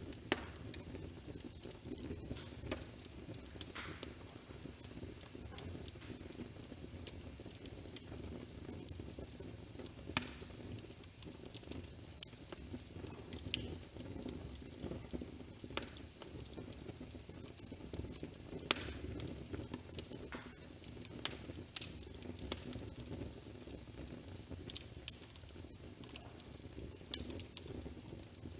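Wood fire crackling in a fireplace: a steady low hiss with sharp snaps and pops at irregular intervals, a few louder pops about ten and nineteen seconds in.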